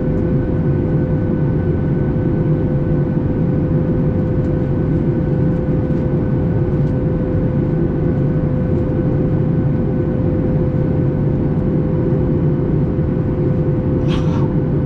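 Steady cabin noise of a Boeing 737 MAX 8 in flight after takeoff, a deep rushing roar with a constant hum from its CFM LEAP-1B engines and air system. A brief sharp noise sounds near the end.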